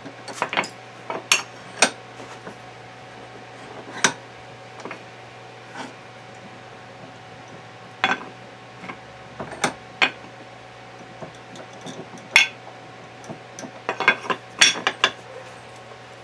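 Steel gearbox parts clinking and knocking together as they are handled and worked on, in irregular sharp clinks with a flurry near the end, over a steady low hum.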